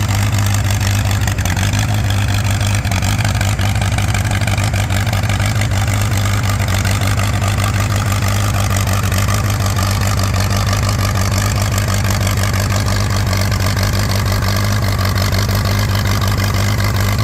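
Unstyled Allis-Chalmers WC tractor's four-cylinder engine running hard and steady under full load, pulling the weight-transfer sled down the track.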